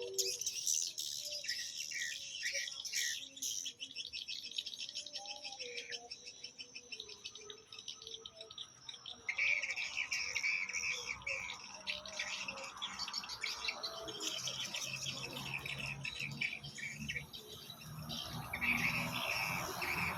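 Swiftlets twittering: many overlapping rapid, high chirps that grow denser about halfway through.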